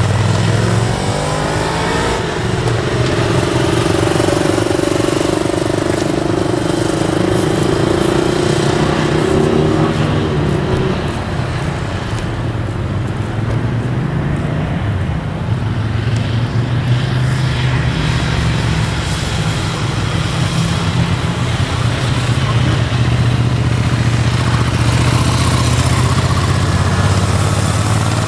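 Motorcycle engine running at low speed, a steady low hum with the engine note rising and falling in the first ten seconds or so.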